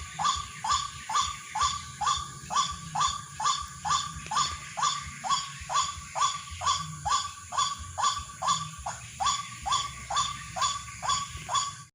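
White-breasted waterhen call: a short, nasal, rising note repeated very evenly, about two a second, without a break.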